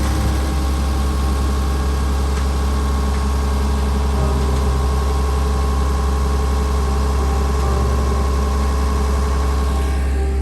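A vehicle engine idling steadily, with a deep, even hum.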